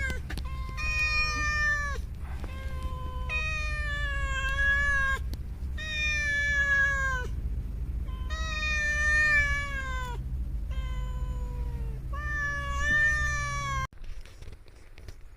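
A cat meowing repeatedly: about six long, drawn-out meows, each falling in pitch at the end, with short gaps between them. A steady low hum runs underneath and stops abruptly near the end.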